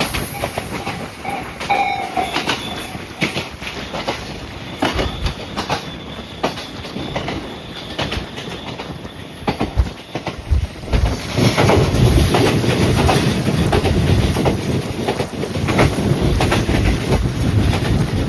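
Electric train running on the rails, with a steady patter of sharp wheel clicks over the track and a brief high-pitched tone about two seconds in. The running noise grows denser and louder from about eleven seconds in.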